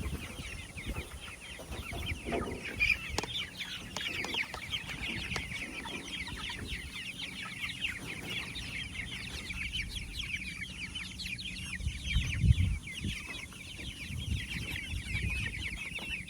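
A flock of young meat chickens (broilers) peeping and cheeping continuously, many short high chirps overlapping, as birds do when crowding for feed. A single dull thump comes late on.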